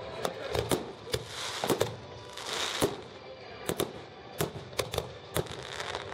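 Fireworks display: a string of about a dozen sharp bangs at irregular intervals, with a crackling hiss near the middle.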